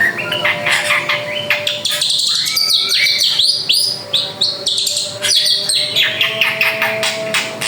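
Drongo (srigunting) singing a fast, varied song: a dense run of chirps, sharp whistled notes and rising and falling glides with no break.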